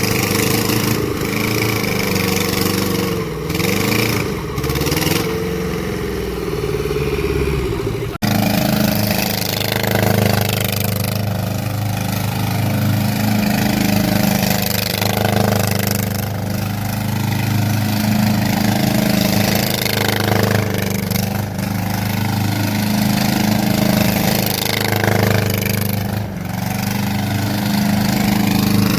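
Homemade small tractor's Tata Ace diesel engine running, its speed wavering up and down for the first eight seconds. After an abrupt break it runs on at a steadier speed.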